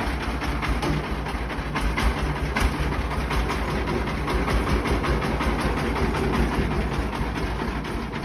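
Tractor engine running steadily with a fast, even chugging, easing off slightly near the end.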